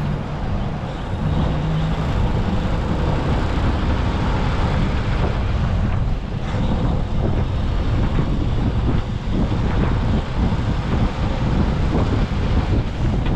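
Tractor-trailer hauling an excavator on a lowboy at highway speed: a steady rumble of engine, tyres and wind, heard from a camera riding on the load.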